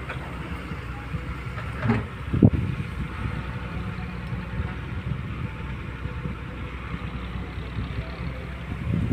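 Heavy diesel engine running steadily at low revs, with two short knocks about two seconds in.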